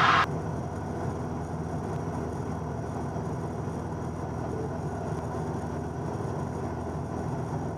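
Steady drone of a Cessna 172N's four-cylinder Lycoming engine and propeller in level flight. A brief burst of radio hiss cuts off suddenly just after the start.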